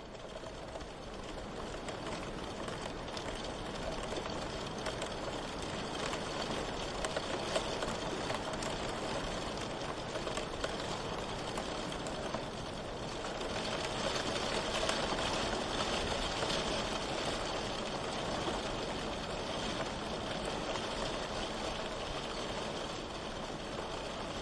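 Steady rain, a dense even hiss with many fine drop ticks. It fades in over the first couple of seconds and grows a little heavier around the middle.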